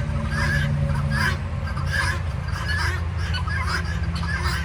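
Guinea fowl calling over and over in short, harsh calls about every half second, over a steady low rumble.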